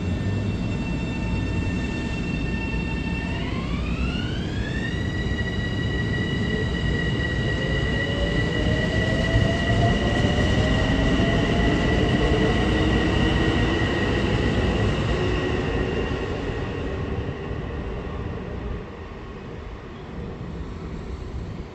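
Long Island Rail Road electric multiple-unit train accelerating away. Its motor whine jumps up in pitch a few seconds in and then holds, while a lower motor tone climbs slowly over the rumble of the cars. The sound fades in the last few seconds.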